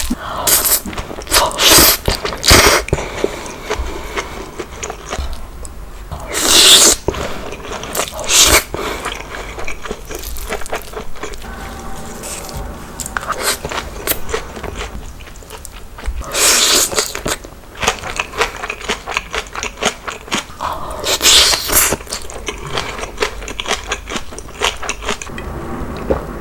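Close-miked eating of cheese gopchang stir-fry: steady chewing, biting and wet mouth clicks, with about half a dozen louder, noisier bursts of eating sound scattered through.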